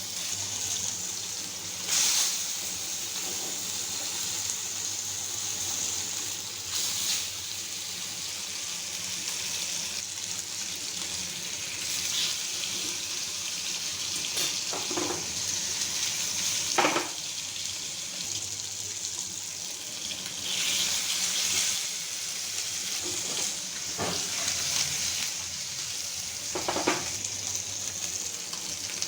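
Food sizzling steadily in hot oil in a pan, with a few brief knocks or scrapes of a utensil against the pan.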